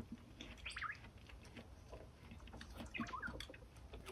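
Faint bird chirps: a few short, quick chirps about a second in and again about three seconds in.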